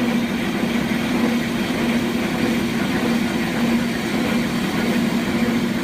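Milling machine taking a heavy cut in manganese steel rail with a WIDIA M8065HD milling cutter at 120 rpm: a steady, even machining noise with a constant low hum and practically no squeal.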